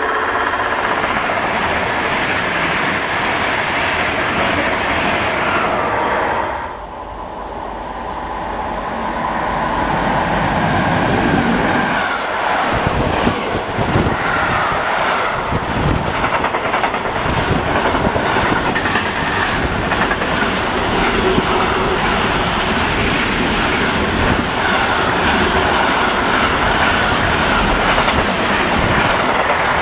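Trains passing at speed on a main line: a loud, continuous rush of wheel and rail noise. It drops briefly about seven seconds in, then builds again, with a run of wheelset thumps over the rails for several seconds.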